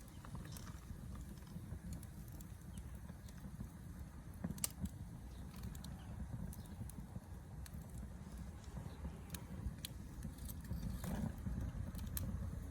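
Wood campfire crackling: irregular sharp pops and snaps scattered over a steady low rumble.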